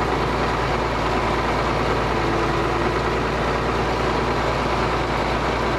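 Ford TW tractor's diesel engine running steadily under load, pulling a plough.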